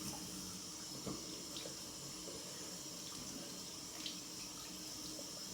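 Tap water running steadily into a sink while the face is rinsed after a shave, with a couple of faint splashes, about a second in and about four seconds in.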